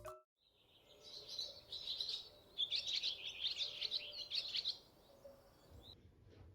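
Small birds chirping and twittering in a quick, high-pitched jumble, strongest in the middle and stopping about five seconds in.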